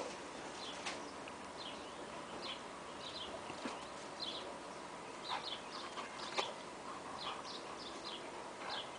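A songbird chirping over and over with short, high, falling notes, over faint scuffling of two dogs play-fighting on grass, with a few sharp knocks.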